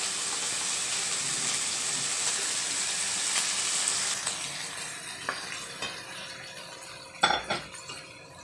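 Chicken pieces and ginger sizzling in hot oil in a wok as they are browned, the sizzle steady for about four seconds and then fading. A spatula stirs and turns the pieces, knocking against the pan a few times, with two sharp knocks near the end.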